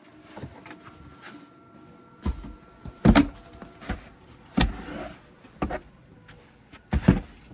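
Snow shovel scraping and knocking on a snowy path as snow is cleared, with about seven irregular sharp hits roughly a second apart from about two seconds in. The loudest hit comes just after three seconds, and two come close together near the end.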